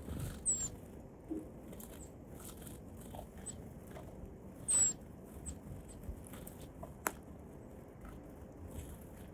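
Tits feeding: light tapping and pecking at food, with two short, high calls that slide downward, and one sharp click about seven seconds in.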